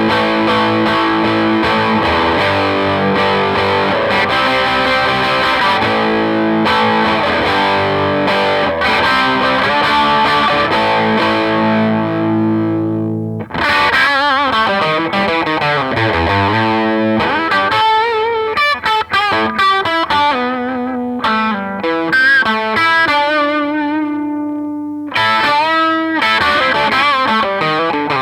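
Gibson Les Paul Studio electric guitar played through a Marshall JTM60 valve amp with distortion: sustained chords for about the first half, then a single-note lead line with vibrato, then chords again near the end.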